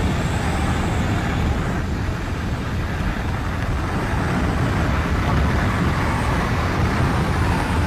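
Steady low drone of an airplane in flight, engine and airflow noise with no clear pitch.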